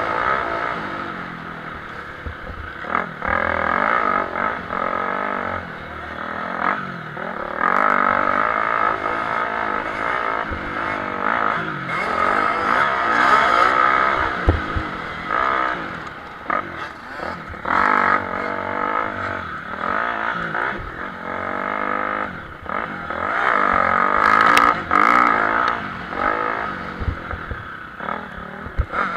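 Motocross motorcycles racing, their engines revving up and falling back over and over, with several bikes heard at once.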